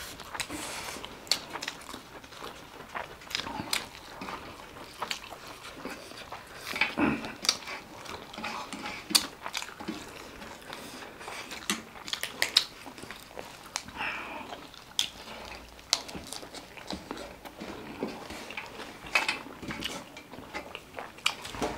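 Close-up eating sounds: people biting and chewing food, with irregular crunches, clicks and mouth smacks.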